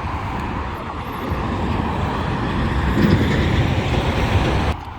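Road traffic passing on a busy street. It swells in the second half and drops off suddenly near the end.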